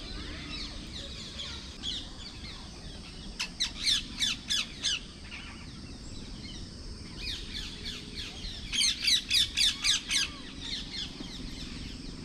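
Two rapid runs of sharp, high chirping calls, about five a second, the first a few seconds in and the second near the end, over faint background bird song.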